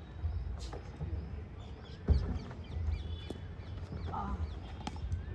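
Birds calling with many short, quick chirps over a low rumble, with a single knock about two seconds in.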